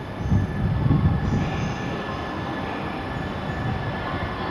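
E3 series 2000 Shinkansen train pulling slowly into a station platform: a heavy rumble of wheels and bogies, loudest in the first second and a half, then a steady running noise with faint high wheel squeals.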